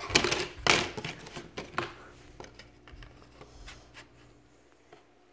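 Jigsaw puzzle pieces being handled and fitted on a table: a few sharp clicks and rustles in the first two seconds, then fainter handling.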